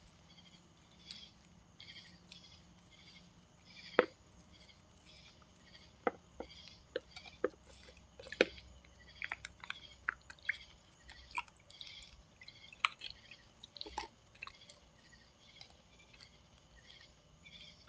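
Baby raccoons in a bird bath: a scatter of sharp clicks, knocks and small drips, irregular and loudest about four and eight seconds in. Behind them, faint high chirps repeat about twice a second.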